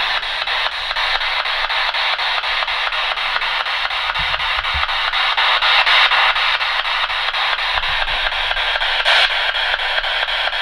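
A ghost-hunting spirit box, a radio that sweeps rapidly through stations, hissing static chopped into quick, even pulses, about seven a second, as it scans.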